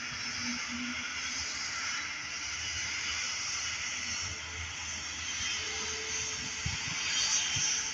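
Airbus A350 jet airliner on its landing, its Rolls-Royce Trent XWB engines giving a steady rushing noise.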